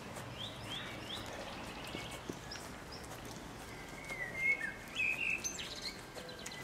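Birds chirping over a faint outdoor background hiss: three quick rising chirps about half a second in, then a short run of chirps around four to five seconds in.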